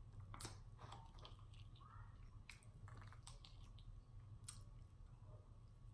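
Faint, close-up mouth sounds of eating a bone-in chicken wing: chewing with scattered wet clicks and lip smacks.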